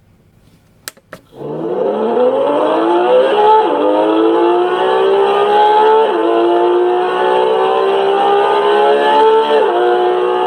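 Porsche 911 GT3 RS flat-six engine accelerating hard through the gears. Its pitch climbs steadily and drops sharply at three quick upshifts. Two sharp clicks come about a second in, just before the engine sound starts.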